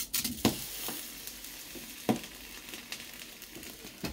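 Food sizzling in hot oil in a pan: a steady hiss, with a few sharp clicks of a utensil against the pan, the loudest about two seconds in.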